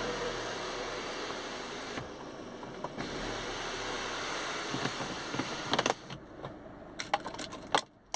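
Fiat 500C's engine running steadily, heard from inside the cabin; about six seconds in the sound drops away as it is switched off, followed by a few sharp clicks of the ignition key, and everything cuts off just at the end.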